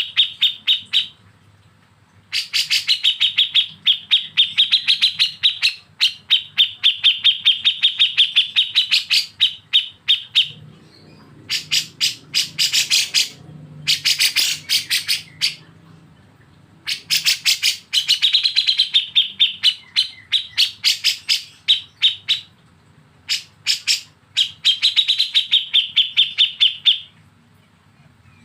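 A songbird's rapid, harsh chattering calls, the 'besetan' used in masteran recordings. They come in bursts a few seconds long with short pauses between, about six in all.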